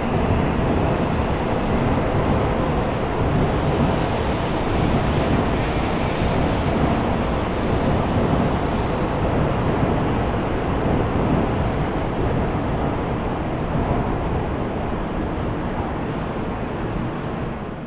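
N700-series Shinkansen train pulling out of the station alongside the platform, a steady rushing of wheels and air that eases slightly as the last cars clear.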